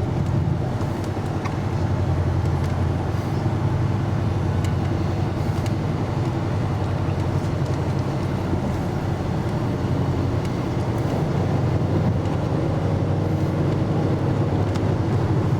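Steady car engine and road rumble heard from inside the cabin of a moving car.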